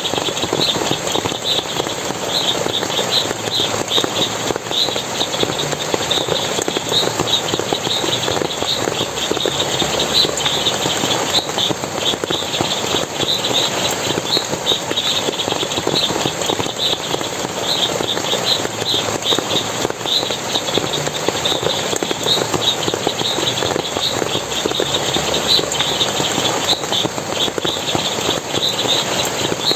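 Running water splashing steadily, with short high chirps repeating about two or three times a second.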